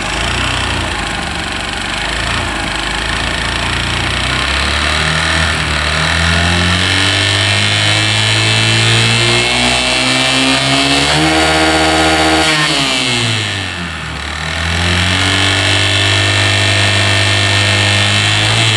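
Honda Dream motorcycle's single-cylinder four-stroke engine running and being revved: the pitch climbs, jumps sharply about two-thirds of the way through, falls back, then rises and holds again. It is the abnormal engine noise that the mechanic traces to a piston worn loose in its cylinder.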